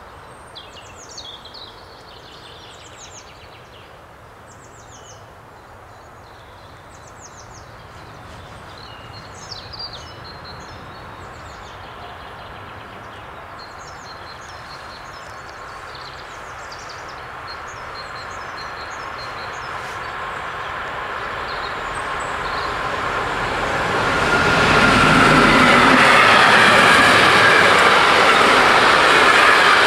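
A freight train approaching and passing: a distant rumble that grows steadily louder for about 25 seconds, becoming a loud, steady rolling noise of the freight wagons crossing near the end. Birdsong chirps over the faint rumble in the first half.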